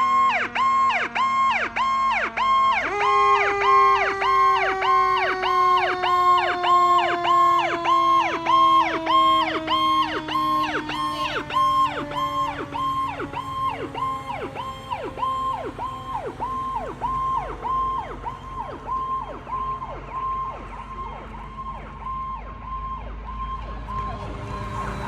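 Fire truck siren on a rapid yelp, rising and falling a few times a second, with a second steady tone underneath that steps up early on and then slowly sinks in pitch. It gets gradually quieter over the second half.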